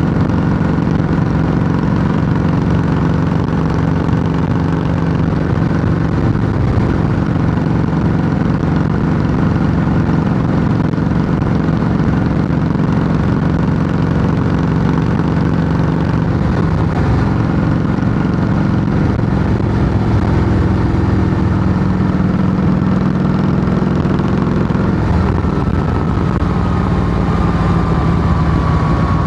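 Harley-Davidson Softail Heritage Classic's air-cooled Twin Cam V-twin running steadily through loud true-dual exhaust pipes with fishtail tips, a low, even exhaust note.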